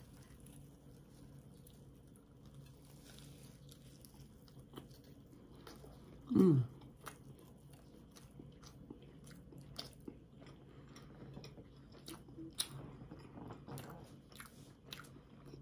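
Close-up sounds of people eating: soft chewing with small crunchy bites, the clicks growing busier from about eight seconds on. About six seconds in, a person gives a short 'mm' that falls in pitch.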